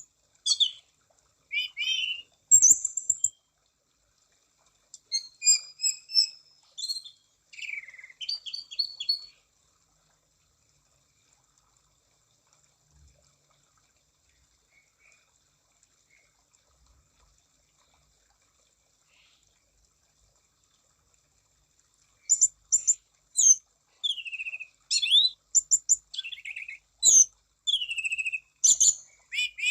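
Anis cendana (orange-banded thrush) singing in quick phrases of high whistles, chirps and downslurred notes. It stops for about twelve seconds in the middle, then takes up the song again near the end.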